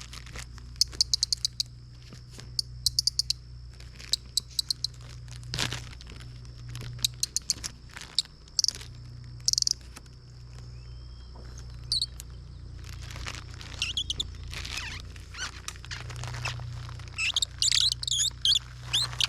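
Repeated quick runs of short, high bird-like chirps, several to a run, with denser chirping near the end. A faint steady high insect drone runs beneath.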